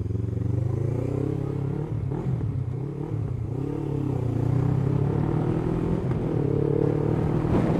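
Honda CBF500's parallel-twin engine running while the motorcycle is ridden, its pitch dipping and rising over the first few seconds, then holding fairly steady.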